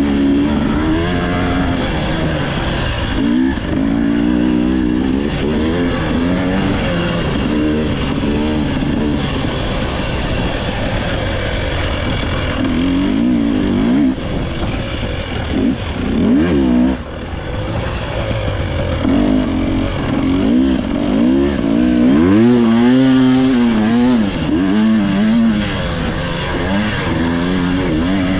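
Dirt bike engine running under race load, revving up and down over and over as the throttle opens and closes and the gears change.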